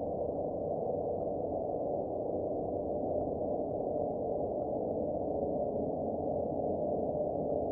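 A steady, dull rushing drone with nothing above about a thousand hertz and no pulses or changes: a 'sound of space' sonification of an astronomical object.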